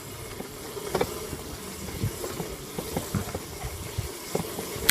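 Razor MX500 electric dirt bike riding along, its motor giving a steady whine under irregular knocks and rattles as it goes over bumps.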